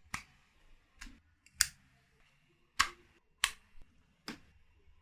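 Six short, sharp clicks at irregular intervals over a quiet room, with a faint steady high tone behind them from about halfway.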